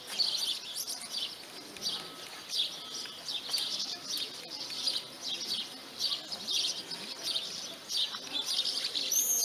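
Small birds chirping and twittering, many short quick calls one after another.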